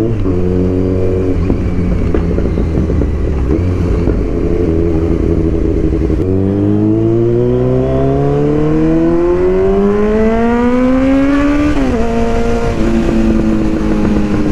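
Kawasaki Z900's inline-four engine under way: a gear change right at the start, a few seconds at steady revs, then a long pull with the pitch climbing for about five seconds. It drops sharply at an upshift about twelve seconds in, then runs steady again.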